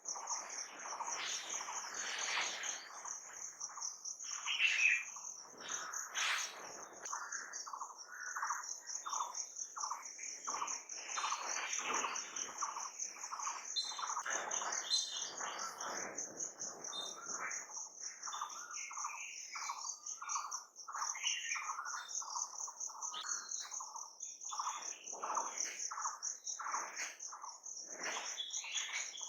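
Many birds chirping and calling in a dense chorus over a continuous high, rapidly pulsing insect trill.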